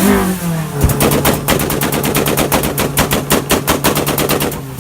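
Car engine revved up and then held on a two-step launch limiter, the exhaust firing a rapid, even string of pops and bangs, about eight a second, for roughly three and a half seconds before it cuts off.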